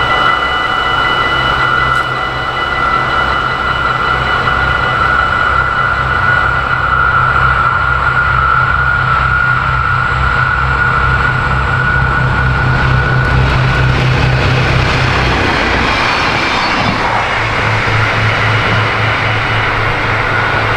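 A train running past with a low pulsing rumble and a steady high whine; about two thirds of the way in the whine fades and a louder rushing noise takes over.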